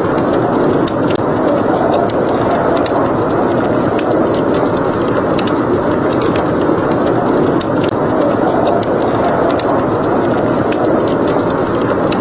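Blizzard wind blowing with a steady, dense rush, with the frequent small sharp crackles of a wood fire burning over it.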